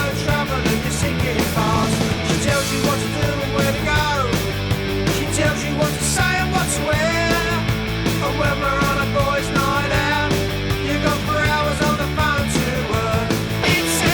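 Oi! punk rock song by a full band playing loud and steady, with distorted electric guitars, bass and drums.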